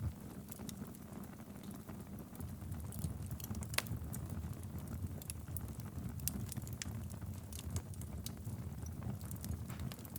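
Wood fire burning in a fireplace: a steady low rumble of flames with irregular sharp crackles and pops, one louder pop about four seconds in.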